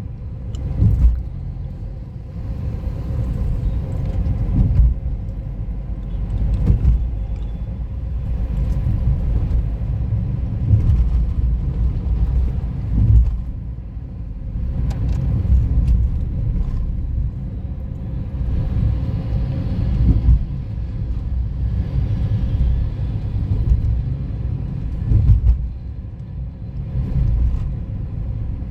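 Low, continuous rumble of riding a motorcycle on the road, swelling and easing every few seconds, with a handful of brief louder knocks.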